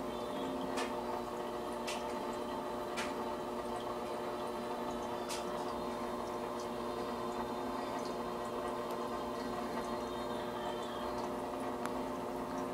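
Aquarium filter running: a steady hum with water trickling and dripping, broken by four sharp clicks in the first half.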